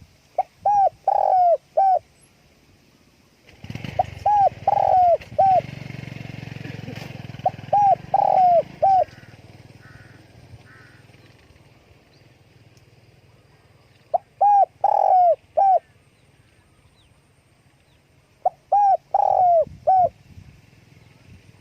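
Spotted dove cooing in five short phrases of four or five notes each, with pauses of a few seconds between them. A low rumbling noise sits under the calls from about 4 to 9 seconds in.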